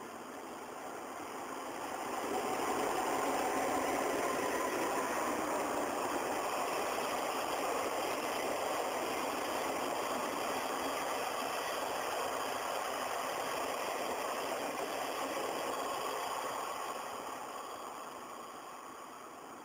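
A locomotive-hauled sleeper train passing at speed. Its rolling rumble swells over the first couple of seconds, holds steady, then fades away near the end.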